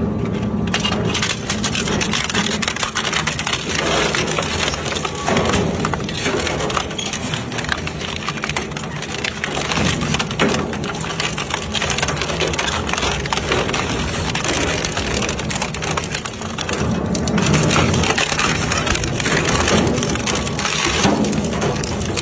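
Crushing machine breaking up a table fan: a continuous run of cracking and crunching plastic and metal, with dense snapping.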